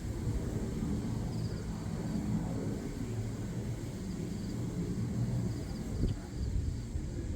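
Outdoor dawn ambience: a low, uneven rumble with faint, short high-pitched chirps repeating every second or so.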